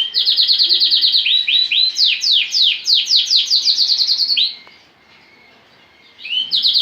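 Male Lancashire canary singing: fast trills of quickly repeated, falling high notes for about four and a half seconds, a pause of about a second and a half, then another trill starting near the end.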